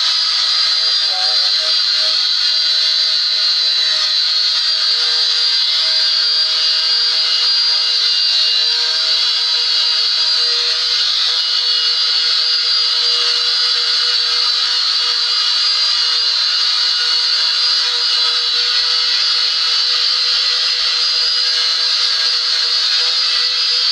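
Small electric sander running steadily, sanding layers of old paint off the cupboard.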